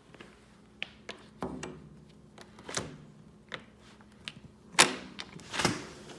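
A run of clicks and knocks from a door being unlatched and opened, the two loudest near the end.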